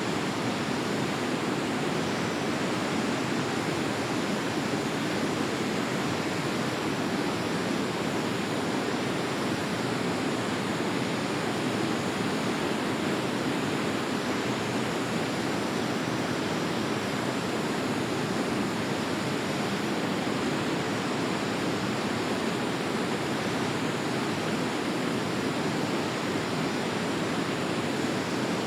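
A river flowing over a streambed: a steady, even rush of water with a deep body and no break.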